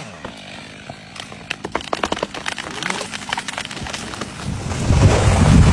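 Tree trunk cracking and splintering in a quickening run of sharp snaps as the cut gives way, followed by a louder, low rushing crash in the last second or so as the tree comes down.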